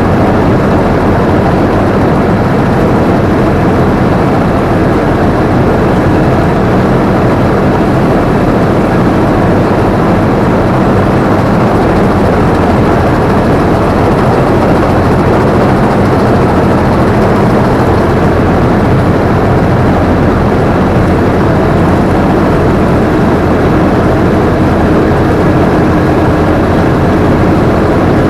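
Combine harvester running steadily under load, its engine and threshing machinery giving a constant loud drone, heard from the operator's seat.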